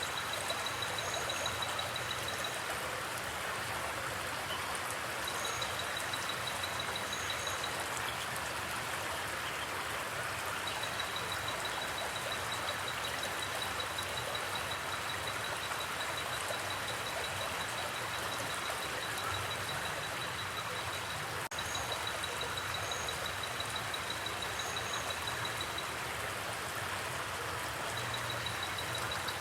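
Steady rush of a flowing forest stream. A high, fast trill comes and goes in stretches of a few seconds, and short high chirps sound now and then.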